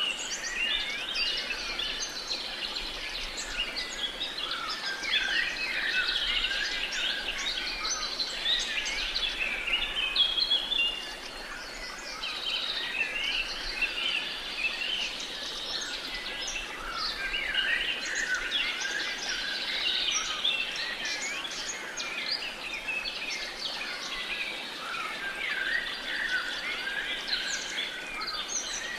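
Many birds singing and chirping at once over a faint steady hiss, a dense dawn-chorus-like layer of short overlapping calls, a little thinner after about ten seconds.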